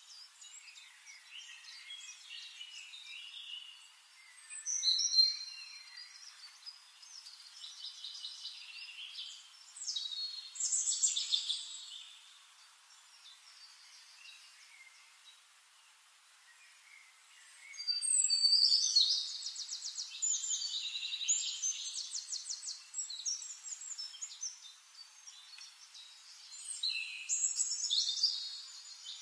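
Birds chirping and calling in several separate bursts of high chirps and fast trills, quieter in between, over a faint steady hiss.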